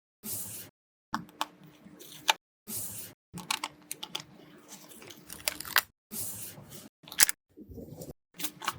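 Paper being crinkled and torn, with small crisp clicks and taps as a handmade paper blind bag is opened and its pieces handled, in short bursts broken by abrupt silent gaps.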